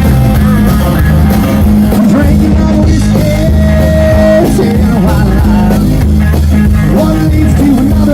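A live rock band playing loudly, with guitar, bass and drums under a sung melody.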